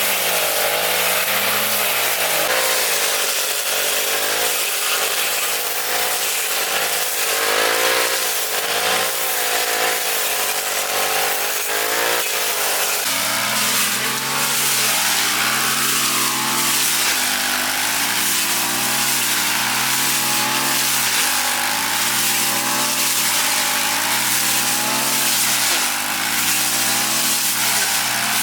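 A motorized grass cutter's small petrol engine running continuously under load, its pitch rising and dipping every second or two as it cuts through grass.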